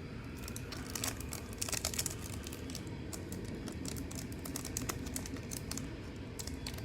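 Plastic wrapper of a football trading-card pack crinkling and crackling in the hands as a stubborn pack is worked open, with irregular clicks that bunch up about a second and a half in.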